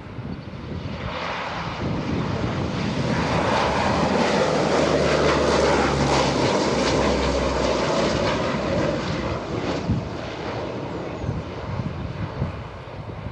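Military aircraft passing low overhead. Its engine noise swells to a peak about midway, drops slightly in pitch as it passes, then fades away.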